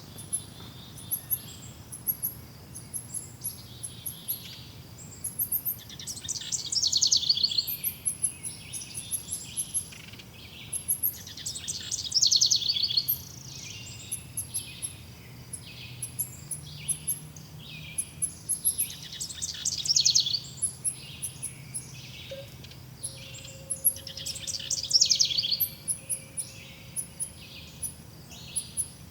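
Woodland birds singing: one bird repeats a loud, fast trilling song phrase four times, about every five to six seconds, while other birds keep up short chirps and very high, thin calls in between.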